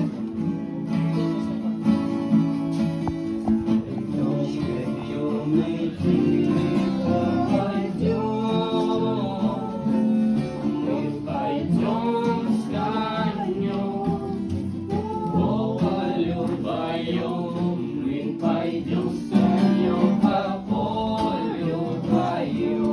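Singing with an acoustic guitar strummed along.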